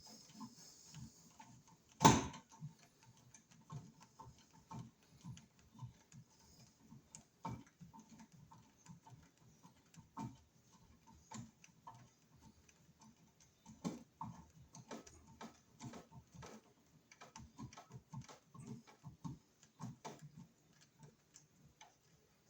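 Hand work with a Robertson screwdriver driving screws into an electrical box: a string of small irregular clicks and ticks, with one sharp knock about two seconds in.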